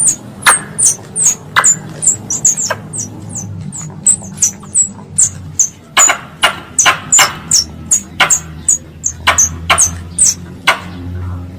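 Wild squirrel call played as a lure: a rapid series of sharp, high chirps, each dropping quickly in pitch, about two to three a second, over a low steady hum.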